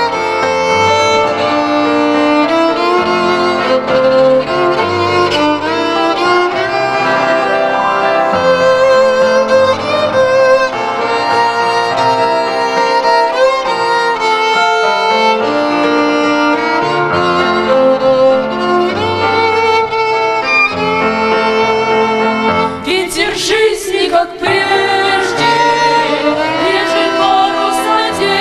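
Instrumental interlude of a sung hymn: a violin carries the melody over bowed-string accompaniment. A short break with a few sharp hits comes about 23 seconds in, and then the melody resumes.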